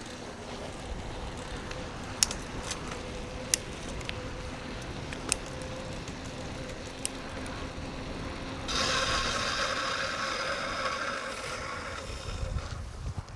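Mountain bike riding along a forest track, tyres rolling on the ground, with a few sharp knocks and clicks. About nine seconds in a louder high buzz starts and lasts about three seconds.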